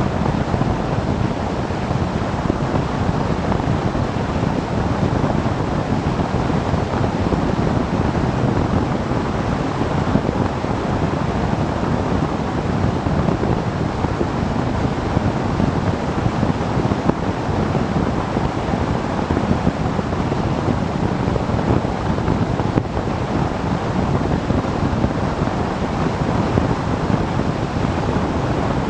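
Steady rushing wind noise on the microphone of a camera on a moving motorcycle, without a break.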